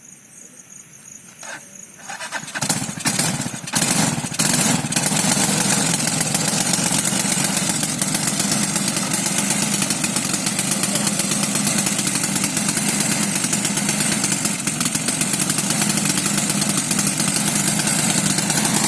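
Quad bike engine starting: a few uneven bursts about three seconds in as it catches, then it runs steadily for the rest of the time.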